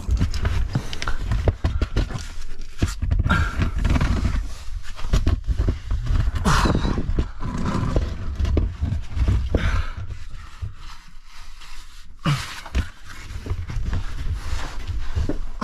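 A caver crawling through a tight rock passage: repeated scraping and knocking of body and gear against rock, with heavy breathing over a steady low rumble.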